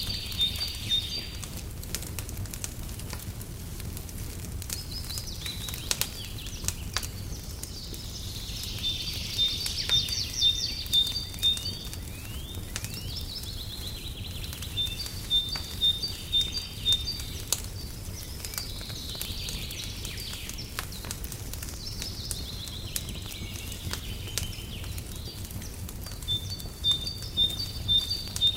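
Birds singing: bursts of high, quickly repeated trilled notes come every few seconds. Under them are the scattered pops and crackles of a wood fire burning in a fireplace, over a steady low rumble.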